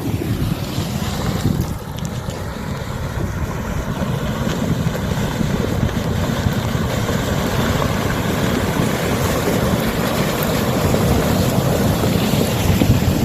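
Floodwater rushing in a swollen river, a steady heavy roar growing slightly louder toward the end, with wind buffeting the microphone.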